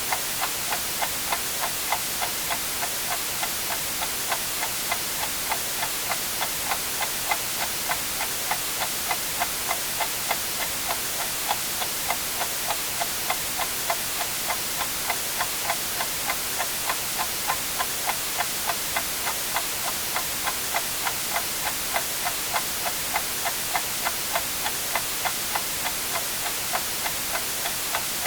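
A clock ticking steadily, about twice a second, over a continuous hiss of white noise.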